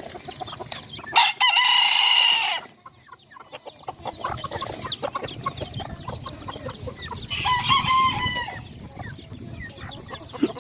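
A rooster crows twice, about a second in and again past the middle, each crow a long held call. Chickens cluck in short calls around the crows.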